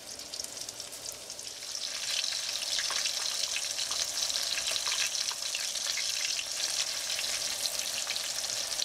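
Chili-and-breadcrumb-coated chicken tenderloins frying in olive oil and butter in a cast-iron skillet: a steady high sizzle with many small crackles and pops. It grows louder about two seconds in.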